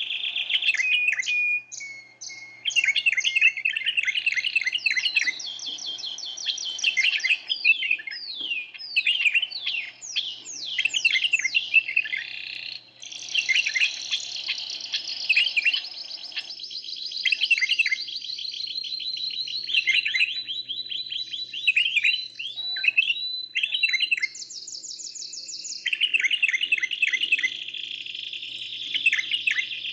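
Domestic canary singing a long, continuous song of rapid trills and rolls, with runs of quick falling notes and a high buzzing trill near the end; the song breaks off only briefly twice.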